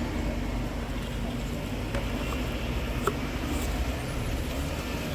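Steady street traffic noise with a low engine rumble and a couple of faint clicks.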